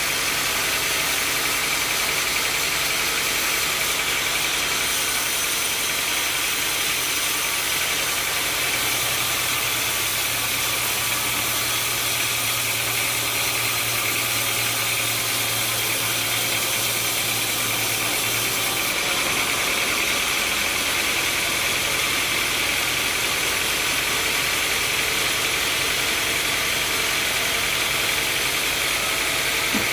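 Sawmill machinery running steadily, a loud, even mechanical noise with a low hum that comes in about a third of the way through and drops away about two thirds of the way through.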